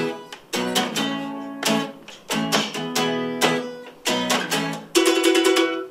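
Acoustic guitar strumming chords for a song's introduction, each stroke struck sharply and left to ring, with a quick run of short strokes near the end.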